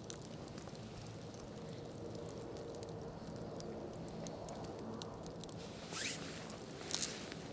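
Campfire crackling: irregular small snaps and pops over a low steady hiss. Two louder short noises come about a second apart near the end.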